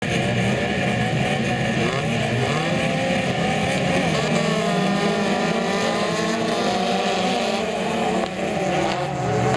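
Several autocross race car engines running and revving together, their pitches rising and falling and overlapping, with a brief dip in level near the end.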